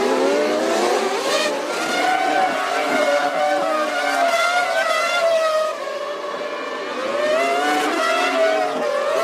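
Several 1998 Formula One cars' V10 engines at high revs, their pitches rising through the gears and dropping at each shift, with a brief dip in loudness about six seconds in.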